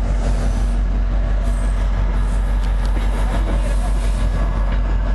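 Diesel locomotive running close by: a steady low rumble with a constant hum over it.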